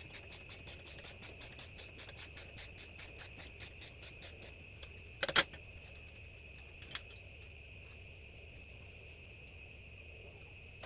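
Ratchet spanner clicking fast and evenly, about six clicks a second, as bolts come undone on a kart's floor tray; the clicking stops about four and a half seconds in. A sharp double knock follows, then a single click, over a steady high tone.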